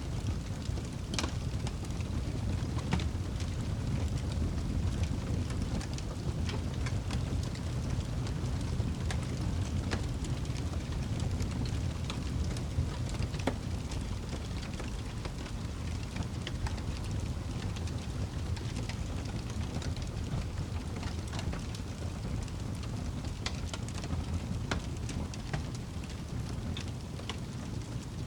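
Campfire burning: a steady low rumble of flame with scattered sharp crackles and pops from the burning wood.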